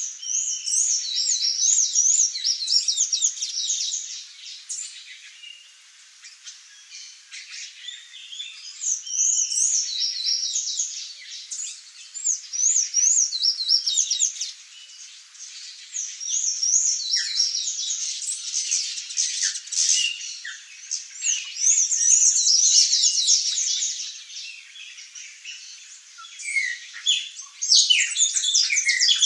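Songbirds singing and twittering in bouts of quick, high, squeaky repeated notes, with a few brief lulls between bouts.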